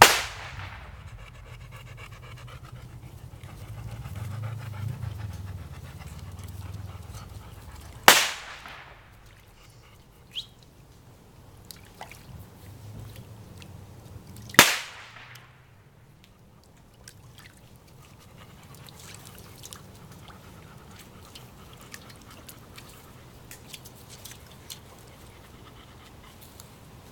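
Three loud sharp bangs, the second about eight seconds after the first and the third about six seconds later, each followed by a ringing echo that dies away; a dog panting between them.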